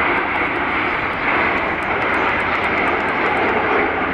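Aermacchi MB-339 jet trainers of the Frecce Tricolori flying overhead in formation, their engines making a steady rushing jet noise.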